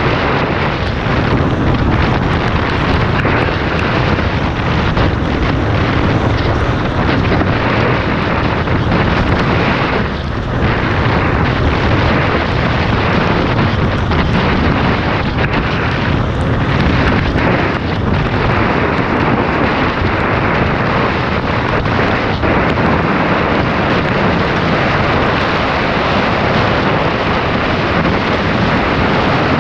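Loud, steady wind buffeting on the microphone with a dirt bike engine running underneath, as heard from a camera on a moving dirt bike.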